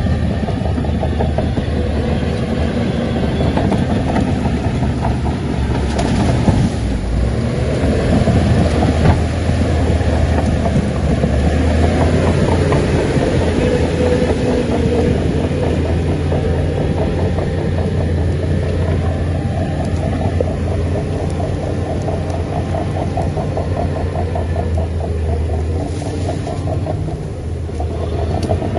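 Shantui crawler bulldozer's diesel engine running steadily under load, with the fast, even clatter of its steel tracks. Two sharp knocks come a few seconds in.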